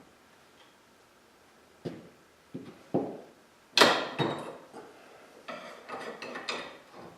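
Garage door torsion spring being wound by hand with steel winding bars: a string of sharp metal clinks and knocks starting about two seconds in, the loudest near the middle, as the bars are seated and swapped in the winding cone.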